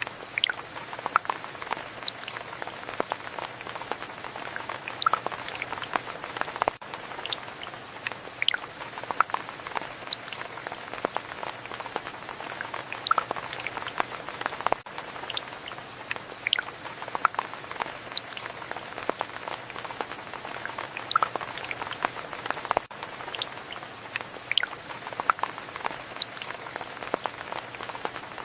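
Steady rain falling, with many separate drops pattering and dripping close by.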